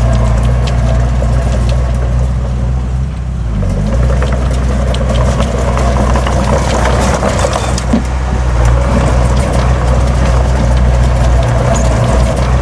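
Heavy diesel earthmoving machine running steadily under load, with metallic clanking and rattling over the engine drone; the engine eases briefly about three seconds in, and there is one sharper knock near the end.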